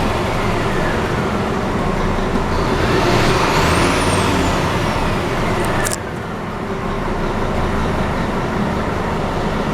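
Scania P280 truck running, a steady diesel rumble with a whistle that rises and falls over a couple of seconds midway. A short sharp hiss comes about six seconds in.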